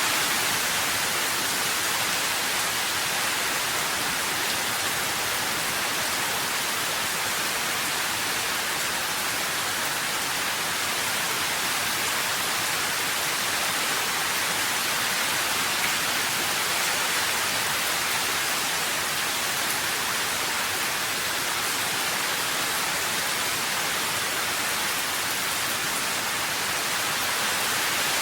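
Steady rain, an even hiss with no distinct drops or thunder standing out.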